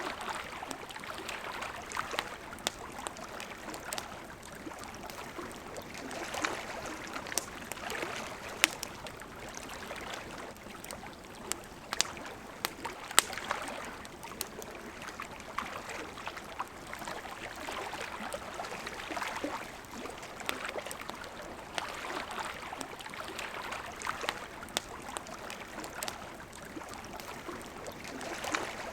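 A river flowing steadily with a gentle rushing and gurgling, and a wood campfire crackling over it with irregular sharp pops, some of them loud.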